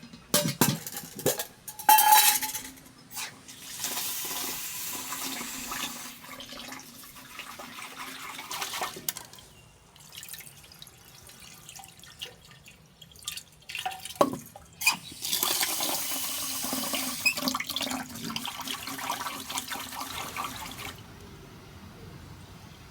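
Water pouring in two long steady pours, the second stopping abruptly, with knocks and clinks of handled gear around them.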